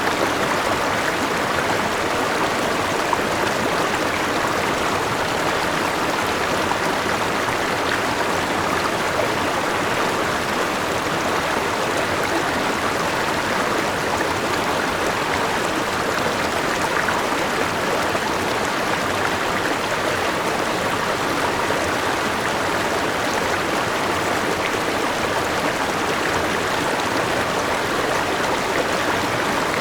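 Forest river rushing over a small waterfall: a steady, even flow of water.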